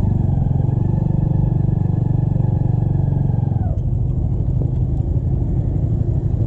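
Motorcycle engine running at steady revs while riding, then easing off about three and a half seconds in, over a loud low rumble.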